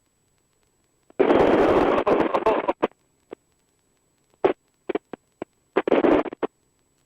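Helicopter intercom or radio audio opening briefly on bursts of rushing noise and clicks, each cut off abruptly with dead silence between: a gated headset or radio channel letting through short snatches of noise. There is one longer burst about a second in, then several quick clicks and pops, then a shorter burst near the end.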